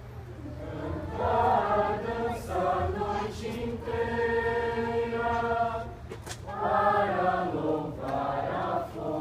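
A choir of many voices singing together in long, held notes, the phrases breaking off for short breaths a few times.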